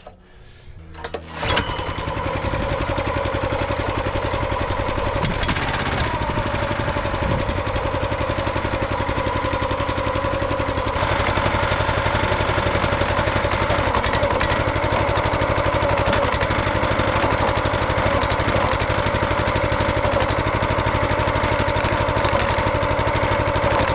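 Small gasoline engine of a hydraulic log splitter comes up to speed suddenly about a second and a half in, then runs steadily, driving the hydraulic pump to move the cylinder. The sound turns slightly brighter about eleven seconds in.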